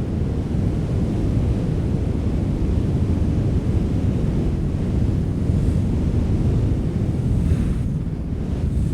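Strong wind blowing steadily, a dense low rumble with a fainter hiss above it.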